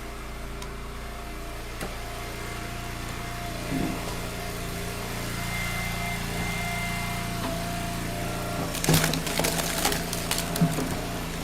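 Engine of a powered log splitter running at a steady speed while splitting firewood. About nine seconds in there is a quick run of sharp cracks and clatter as the wood splits apart and pieces fall.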